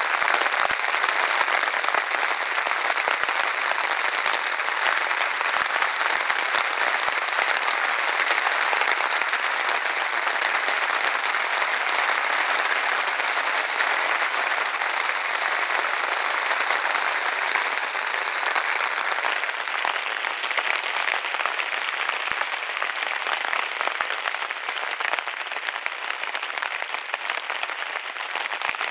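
Steady, even rain falling, with scattered drops pattering; it eases slightly about two-thirds of the way through.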